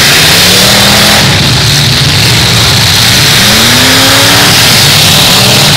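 Demolition derby cars' engines revving hard, the pitch climbing twice, near the start and again about halfway through, over a loud, continuous din of engines.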